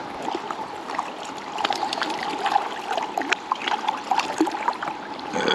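River water running and trickling, with many small, irregular splashes.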